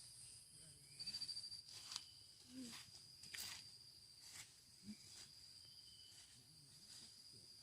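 Faint insects trilling: a steady high-pitched buzz, with a pulsed trill about a second in and a few faint clicks.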